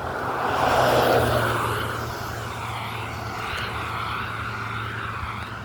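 An engine passing by: a steady hum with a wavering whine above it, swelling to its loudest about a second in, then slowly fading.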